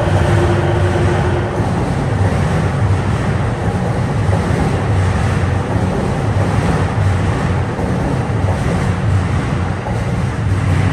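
Tokyo Waterfront Area Rapid Transit 70-000 series electric train running out along the platform: a steady, loud rumble of wheels on rail, with a steady tone that stops about a second and a half in.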